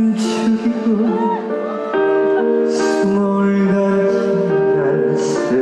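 Live music: a slow song sung with long held notes over instrumental backing.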